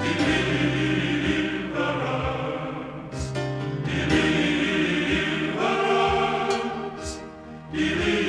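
Background music of a choir singing in sustained phrases, with dips between them.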